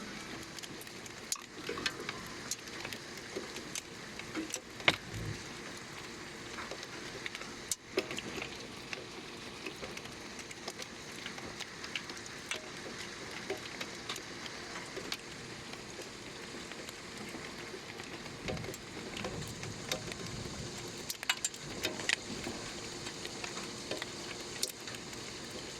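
Heavy rain with hail falling, a steady hiss broken by many sharp ticks and clicks of stones and drops striking hard surfaces, with a louder knock about five seconds in.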